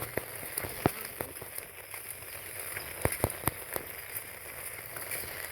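Rain falling steadily, with irregular sharp ticks of individual drops striking a surface close by.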